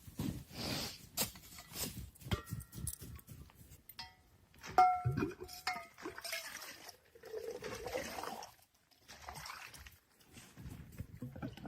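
Scattered knocks and clinks of small hard objects being handled, with a few brief ringing tones a few seconds in.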